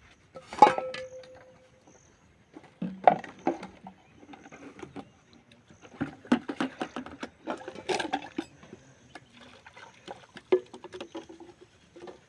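Metal pots and utensils clanking and knocking against each other as they are washed and rinsed by hand. There is one loud clang that rings on briefly about half a second in, another near eight seconds, and smaller clatters between them.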